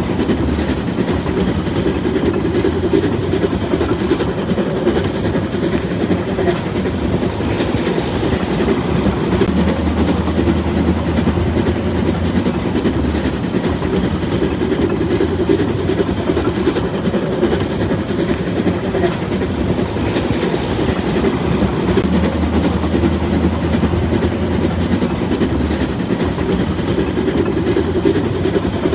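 A train running steadily along the track: a continuous, even rumble with no pauses, its pattern recurring about every eleven seconds.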